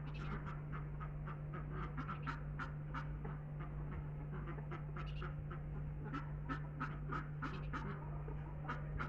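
Ducks quacking in a rapid run of short calls, several a second, over a steady low hum.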